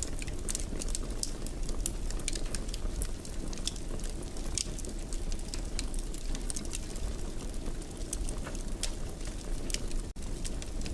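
Wood fire burning in a fireplace: irregular sharp crackles and pops over a steady low rumble of the flames. The sound drops out for an instant about ten seconds in.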